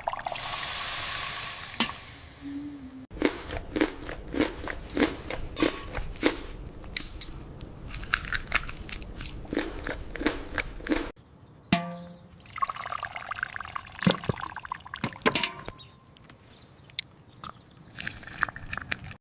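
Close-miked eating sounds: rapid crunching and chewing clicks, with a hiss near the start.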